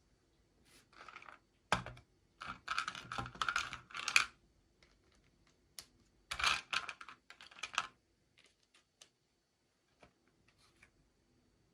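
Small plastic toy packaging being handled and opened: two runs of quick crinkling and clicking, each a few seconds long, then a few scattered light clicks.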